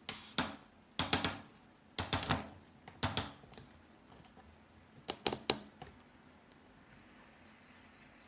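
Keys of a 2.4 GHz wireless ABNT2 keyboard (Office 5+) being typed on as it is tested: short clusters of key clicks about once a second, stopping about six seconds in.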